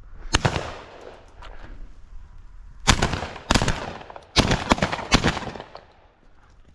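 A volley of shotgun shots at pigeons flying over, about seven in all. Two come right at the start, and the rest follow in quick succession from about three to five seconds in, some nearly overlapping.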